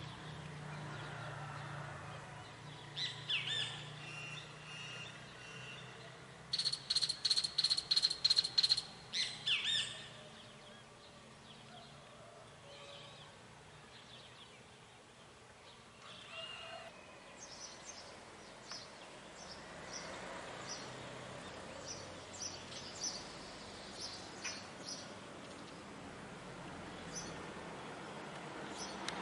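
Wild birds singing and calling at dawn. The loudest is a quick run of sharp repeated notes, about nine in a row, around seven seconds in, and later a scatter of short high chirps, over a faint low hum.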